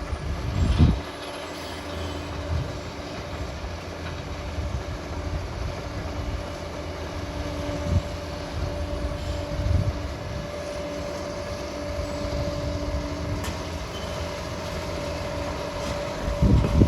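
Liebherr PR 746 crawler dozer running and working, a low rumble with a steady whine over it and heavy thumps about a second in, twice near the middle and again near the end.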